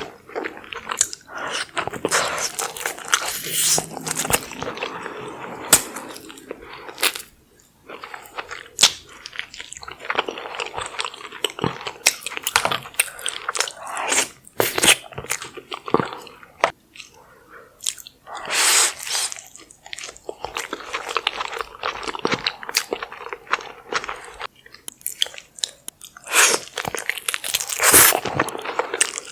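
Close-miked eating of a saucy seafood boil: biting, crunching and wet chewing, with many sharp clicks and smacks, loudest twice in the second half.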